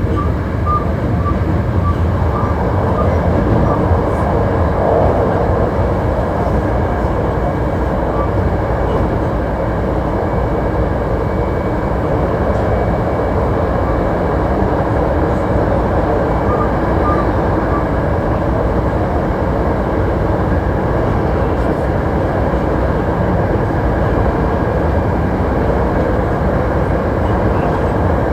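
Hankyu 1300 series electric train running at speed between stations: a steady rumble of wheels on rail.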